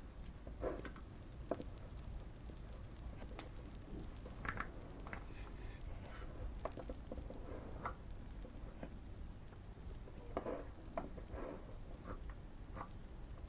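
Scattered keystrokes on a Keychron Q1 custom mechanical keyboard with Fierce Girl switches, tape- and PE-foam-modded for a muted thock, coming in short irregular clusters with pauses between. Light fireplace crackling sounds underneath.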